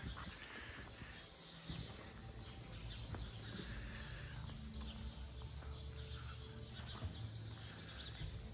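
Birds chirping over and over, with a faint low steady hum beneath.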